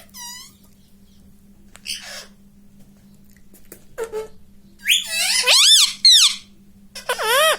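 Pet Indian ringneck parrot making high, squeaky whistled calls, scattered at first, then a loud quick run of rising-and-falling whistles about five to six seconds in, and one more call near the end.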